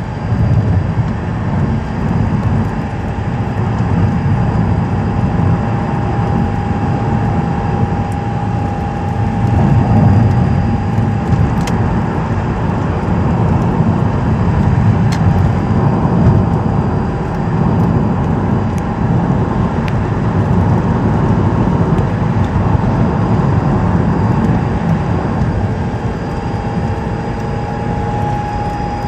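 A 2006 Mazdaspeed 6 running, with a steady low rumble and a thin, single-pitched whine above it. The whine is clear for about the first ten seconds, fades in the middle, and returns near the end.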